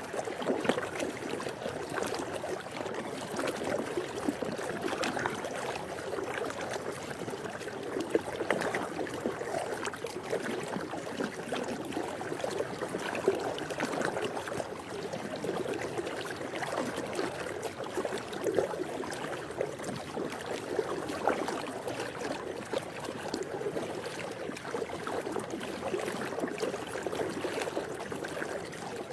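Swimming pool water moving and splashing: a steady wash of water sound with many small, irregular splashes.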